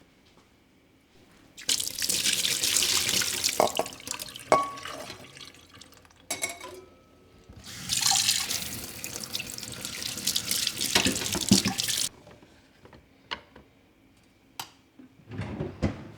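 Kitchen tap running into a sink in two spells, about two seconds and then about four seconds, with small knocks and clinks in between. A short low thud near the end.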